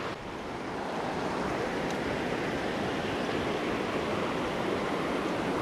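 Steady rush of creek water running over rocky shoals.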